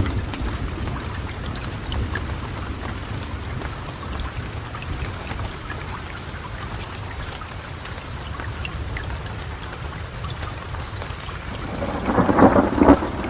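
Steady rain falling, with scattered drop ticks, over a low, continuous rumble of thunder. Near the end a louder burst rises for about a second.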